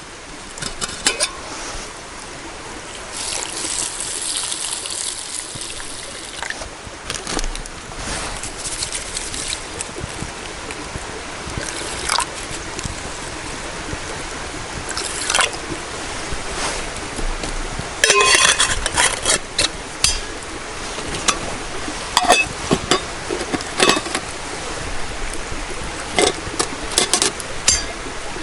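Water and liquid handled in camp cookware: pouring and trickling over a steady hiss, with scattered clinks of metal pots and utensils and a louder run of clattering about two-thirds of the way through.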